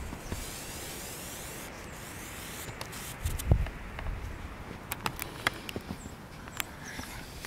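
Footsteps crunching through deep, fresh snow while a path is broken to a birdfeeder. There is a heavy thud about three and a half seconds in, and a run of sharp crunches in the last few seconds.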